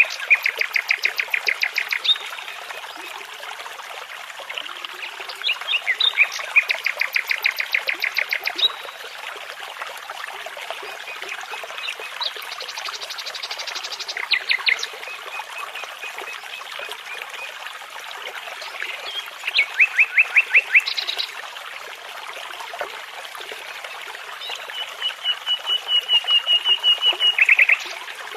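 A nightingale singing phrases of rapid repeated notes, five phrases separated by pauses of a few seconds, over the steady babble of a brook.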